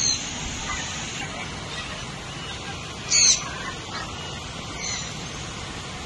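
A bird gives a short, sharp, high call about three seconds in, the loudest sound here, and a fainter one near five seconds, over a steady bed of background noise.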